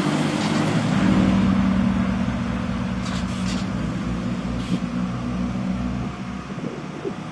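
Truck engine running steadily, with a brief hiss twice midway through and the engine sound easing slightly near the end.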